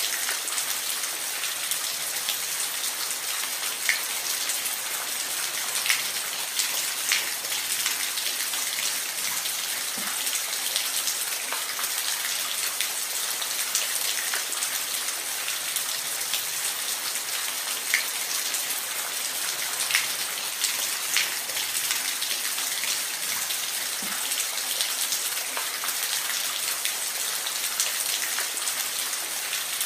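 Steady hiss of falling water, high and bright with little deep rumble, with scattered sharp drop-like ticks every second or two.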